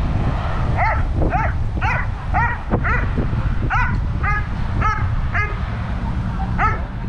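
Dobermann barking repeatedly, about ten barks at roughly two a second with a short pause before the last, over a steady rumble of gusty wind on the microphone.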